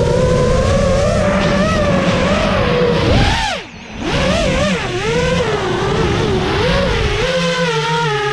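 FPV quadcopter's brushless motors and propellers whining. The pitch holds fairly steady, dips sharply and briefly about three and a half seconds in, then climbs back and wavers up and down with the throttle.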